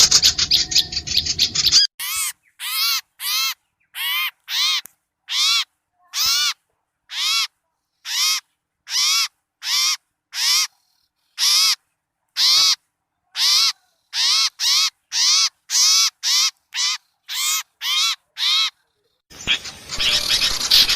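Recorded small-bird calls from a bird-lure track: a busy chorus of chirping gives way to one bird repeating a short, harsh call about one to two times a second, some two dozen times, before the chirping chorus returns near the end.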